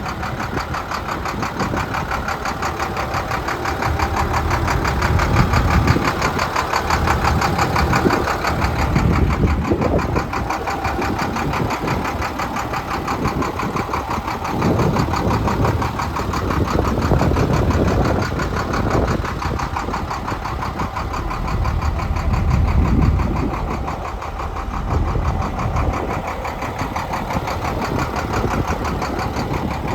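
International DT466E inline-six turbo-diesel engine of a 1997 IHC 4900 truck running steadily, with fast, even firing pulses and a slight rise and fall in loudness.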